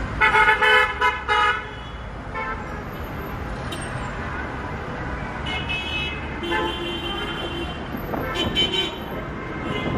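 Car horns honking over the steady hum of road traffic, with a loud burst of honks in the first second and a half and shorter honks later on.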